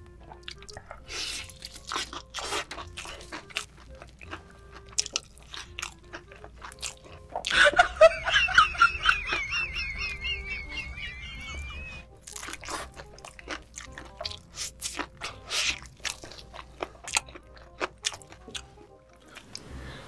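Close-miked crunching and chewing of sauce-glazed fried chicken dipped in cheese fondue, with sharp crunches throughout. About seven and a half seconds in, a loud warbling, wavering pitched sound comes in and lasts about four seconds.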